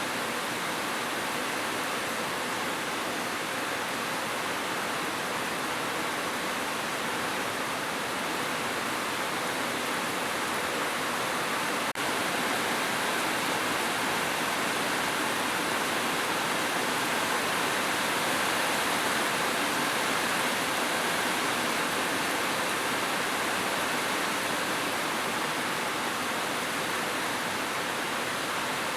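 Heavy rain falling steadily on a roof, an even hiss with no thunder. There is one split-second break near the middle.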